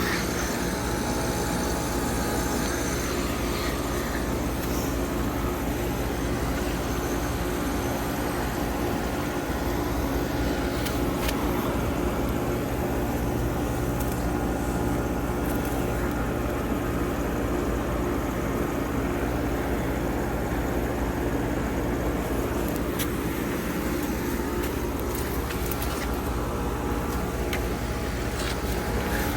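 Outdoor unit of a 2015 Carrier Comfort 1.5-ton heat pump running steadily: a low, even hum with several steady tones.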